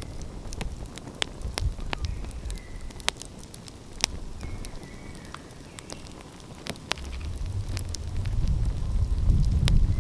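Wood fire crackling, with irregular sharp pops and snaps, over a low rumble that grows louder toward the end.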